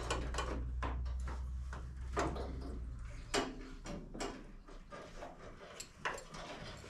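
Scattered clicks and light knocks of hand tools and fittings as fuel-line connections in the engine bay are tightened, over a low steady hum that fades out about halfway through.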